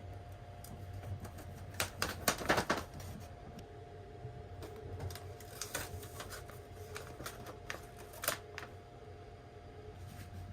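Steady low hum with a thin steady whine, as in a moving train compartment. A quick cluster of clicks and rustles comes about two seconds in, and a few sharp ticks come later, like small objects being handled.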